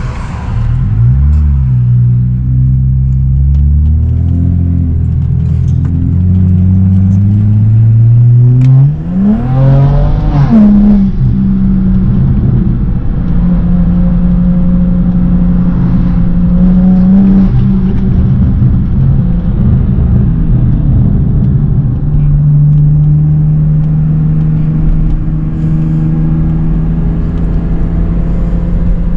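BMW E92 335i's turbocharged N54 straight-six with full bolt-ons and an upgraded turbo, heard from inside the cabin under hard acceleration. The engine note climbs in pitch through several gear changes over the first nine seconds, rises sharply once more about ten seconds in, then settles into a steady drone at highway cruising speed.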